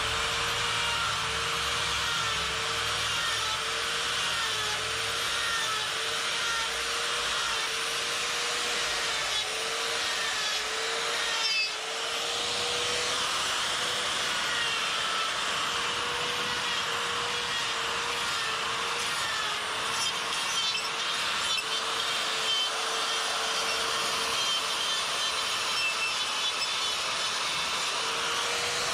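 Die grinder with a flame burr running at high speed and grinding grooves into wood: a steady high whine that sags slightly, about once a second, as the bit is pressed in, over a hissing grind. It drops off briefly about twelve seconds in.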